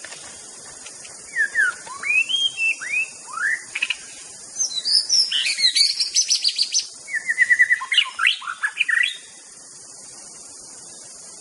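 White-rumped shama singing one long varied phrase. Clear whistled notes sweep up and down, then come quick high stuttering notes and a fast trill, and the song stops near the end. A steady high hiss of insects runs underneath.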